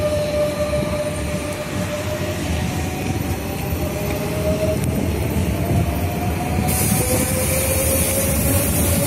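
Electric commuter train running alongside a station platform, its motors whining with a slowly rising pitch over a steady rumble. A high hiss joins about two-thirds of the way through.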